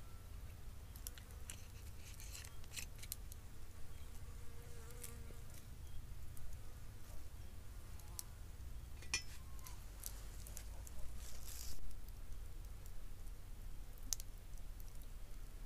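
An insect, likely a fly, buzzing past briefly, over a steady low rumble with scattered light clicks and a short louder rustle near the end.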